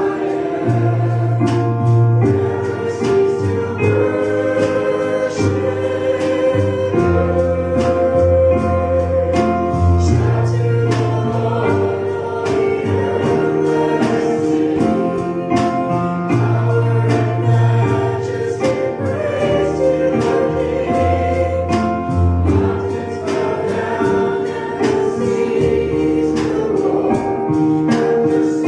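Choir singing a gospel worship song over a band, with a deep bass line moving under held chords.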